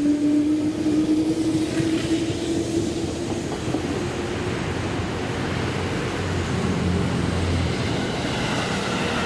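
Electric train running past on the tracks, with a rising motor whine that fades out after about three seconds.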